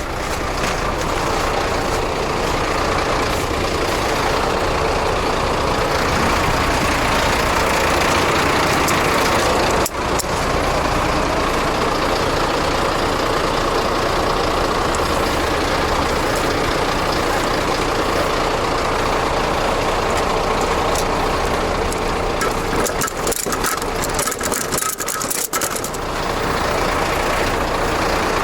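Scania truck's diesel engine running steadily, with a brief drop in sound about ten seconds in.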